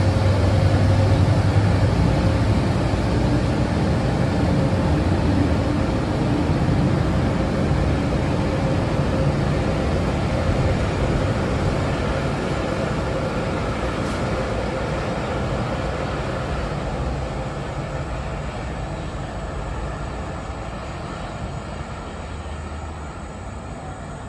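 NJ Transit commuter train rumbling past and drawing away, its noise fading slowly and steadily over about twenty seconds.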